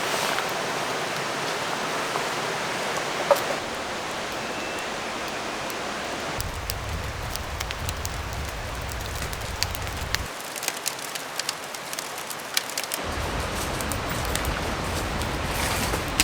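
Wood fire crackling over a steady hiss, with one sharp pop about three seconds in and scattered pops and crackles from about halfway on.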